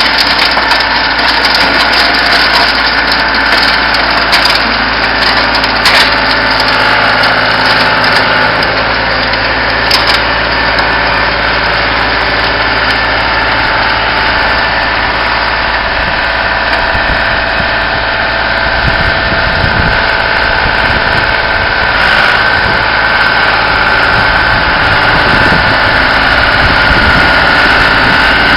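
John Deere tractor engine running steadily while it drives a tractor-mounted Lucknow snowblower, with a couple of sharp knocks in the first half.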